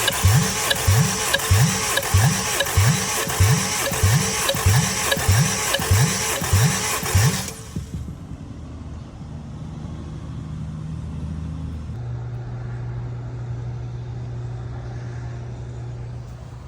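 Honda F20B inline four-cylinder engine cranked over on its starter without firing, as in a compression test, with an even beat of about two and a half pulses a second. The cranking stops about seven and a half seconds in, and a steady low hum remains.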